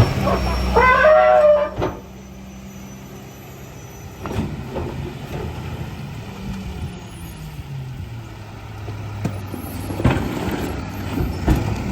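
Garbage truck at work: a loud squeal, typical of air brakes or hydraulics, in the first two seconds, then its engine running steadily and more quietly, with a few sharp knocks.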